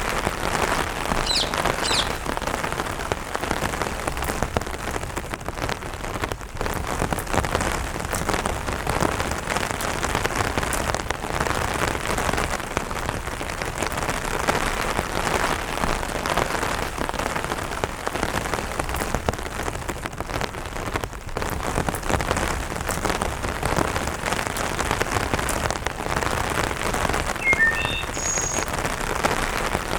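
Steady light rain falling on an umbrella, a dense even spread of small drop hits on the fabric. A few short bird chirps come through about a second in and again near the end.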